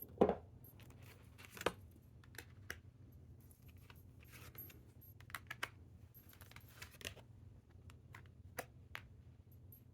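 Tarot and oracle cards being handled: soft card slides, light taps and flicks as cards are drawn and laid down, in scattered short strokes.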